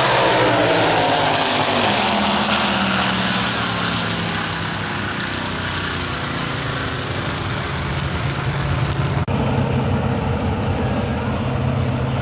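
Drag-race cars' V8 engines at full throttle, falling in pitch and fading as they run away down the strip. After an abrupt cut about nine seconds in, engines are heard running steadily at low revs.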